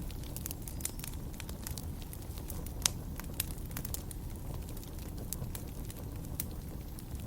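Wood fire crackling in a fireplace: irregular sharp pops and snaps over a steady low rumble of flames, the loudest pop about three seconds in.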